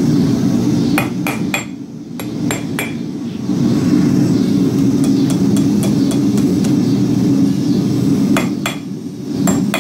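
Hand hammer striking a hot steel rod on an anvil while the hook end is bent and forged. There is a quick run of sharp metallic strikes in the first few seconds and another run near the end, over a steady low roar.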